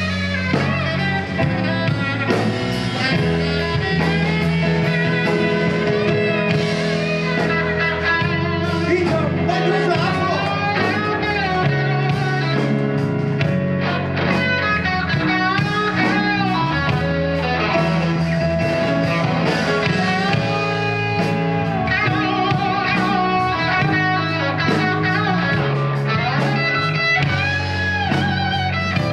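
Live band music led by guitar, its notes bending in pitch, over steady bass and drums.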